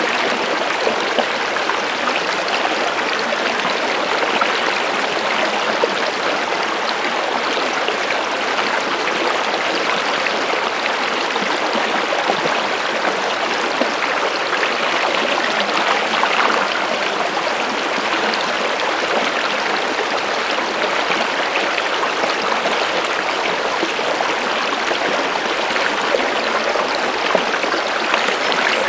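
Running water of a stream, an even, steady rush with small flickers of splashing throughout.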